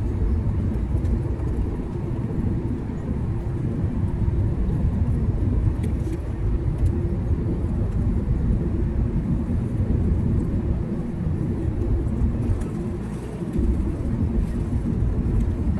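Steady low rumble of an airliner cabin as the jet rolls along just after landing: engine and wheel noise, easing slightly for a moment about two-thirds through.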